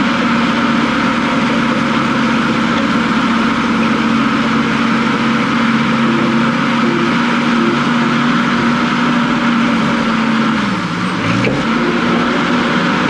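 Diesel engine of heavy earthmoving equipment running steadily at high throttle. Near the end its pitch dips sharply for about a second and comes back up.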